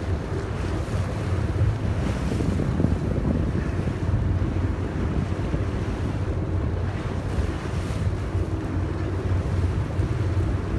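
Steady low drone of a yakatabune's engine underway, with wind buffeting the microphone and water washing along the hull.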